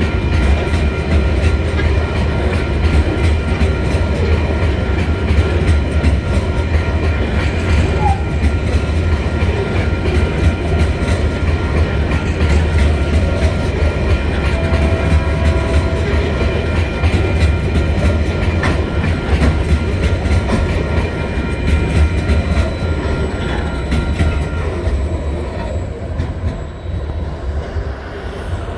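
Loaded coal wagons of a freight train rolling past, a steady low rumble of wheels on the rails that grows quieter near the end.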